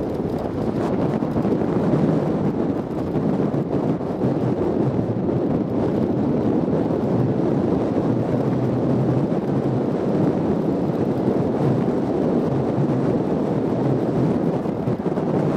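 A Jeep driving off-road: a steady engine and road rumble with wind buffeting the microphone.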